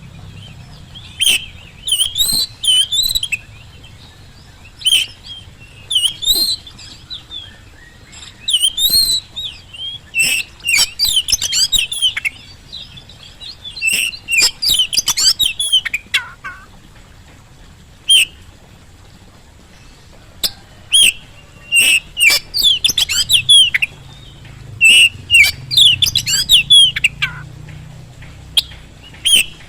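Oriental magpie-robin singing: repeated bursts of quick, varied whistles and chattering notes, broken by short pauses.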